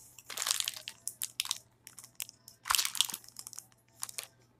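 Close-up chewing of crunchy food, in four bursts of crackly crunches with short pauses between them.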